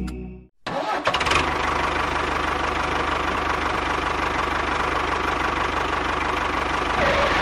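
A small engine or motor running steadily with a fast, even rattling knock. It starts about half a second in, after a short silence.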